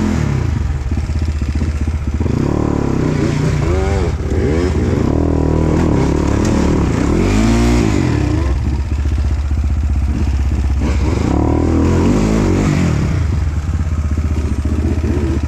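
Dirt bike engine running loud under riding throttle, its pitch climbing and dropping again and again as the rider opens and closes the throttle.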